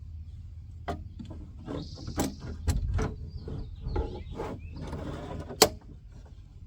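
Window regulator being worked into a car door by hand: a series of knocks, rattles and scrapes of metal and plastic parts, with one sharp clank about five and a half seconds in.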